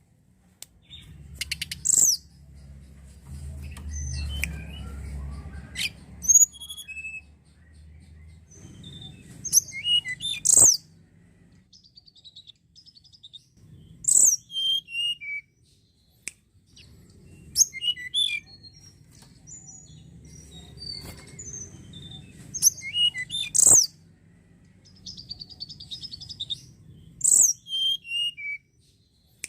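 Tledekan gunung singing: short song phrases repeated every few seconds, each opening with a sharp, very high note and running down in pitch through a string of lower notes, over a faint low rumble.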